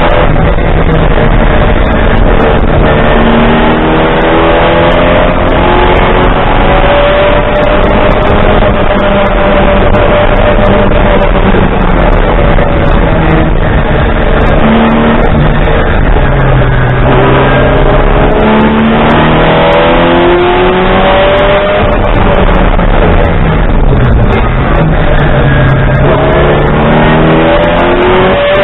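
Racing car engine at full load, heard from inside the cockpit, loud throughout, its revs rising and falling again and again as the car is driven hard around the circuit.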